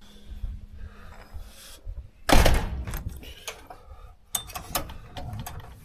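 Knocks and rattles of gear or a door being handled: a loud knock and rattle about two seconds in, then a quick run of sharp clicks about four seconds in, over a low rumble of wind on the microphone.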